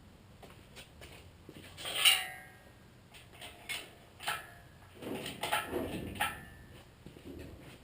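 Scattered knocks and clinks of metal tools and parts being handled, the loudest a single ringing metal clank about two seconds in, with a cluster of smaller knocks about five to six seconds in.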